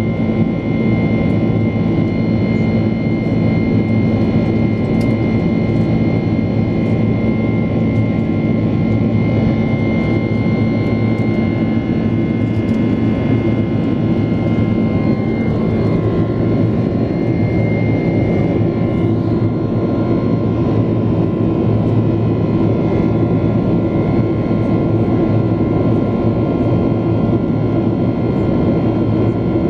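Steady jet engine noise of a Boeing 767-400ER heard from inside the passenger cabin, with a mix of constant tones over the rushing noise. The tones change pitch about halfway through.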